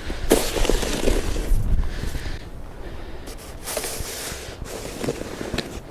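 Snow shoveling: a shovel scraping and pushing through wet snow on pavement in a few drawn-out strokes, about a second or two each, with crunching of snow between them.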